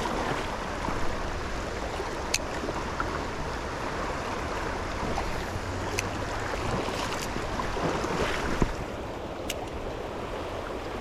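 River water flowing steadily over stones, with a few sharp ticks over it.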